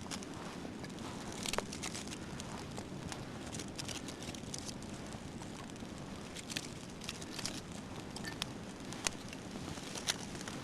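Campfire of dry wood and birch bark burning with a steady rush, broken by irregular sharp crackles and pops, the loudest about a second and a half in and twice near the end.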